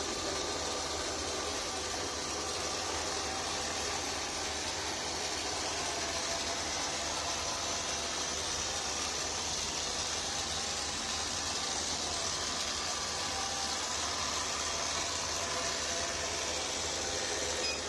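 A robot vacuum cleaner with its wet mop unit fitted, running steadily while it sweeps and mops the floor: an even fan hiss with a faint high whine.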